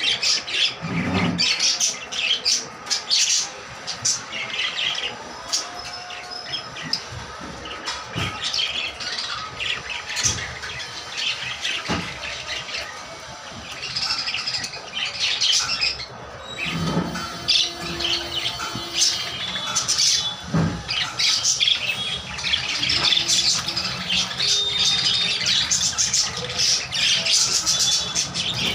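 Parrots squawking and chirping, many short calls overlapping irregularly, with a few dull knocks.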